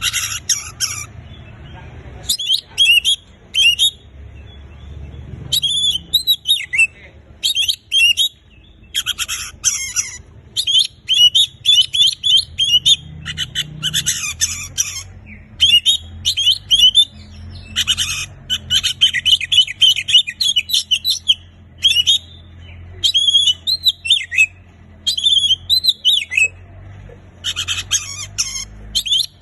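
Oriental magpie-robin (kacer) in full song: a fast, unbroken run of varied high phrases with short pauses between them. A faint low hum sits under the song.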